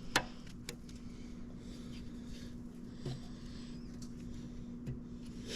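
Quiet shop room tone with a steady low hum, one sharp click just after the start and a couple of soft knocks later on.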